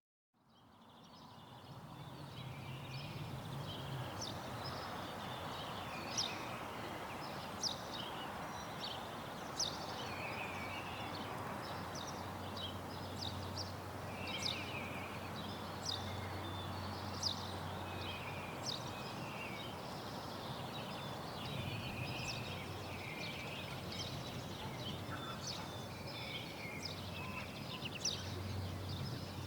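Outdoor ambience fading in from silence: steady background noise with a bird giving short, sharp, high calls, repeated every second or two.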